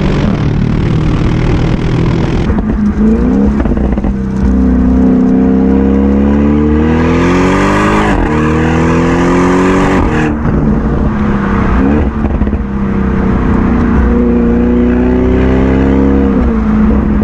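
Audi RS6 Performance's twin-turbo V8 through an Akrapovic titanium exhaust, accelerating hard. The engine note climbs in pitch and drops back several times, as at gear changes.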